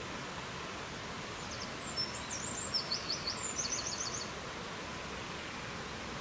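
Steady rushing wind noise, with a songbird singing one short phrase of quick, high notes and trills about a second and a half in.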